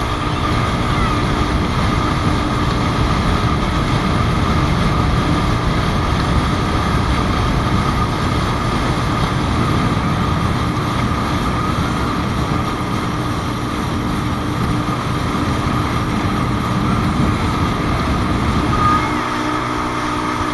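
Traxxas Spartan RC boat's electric motor running with a steady high whine, under a heavy low rumble that stops about 19 seconds in.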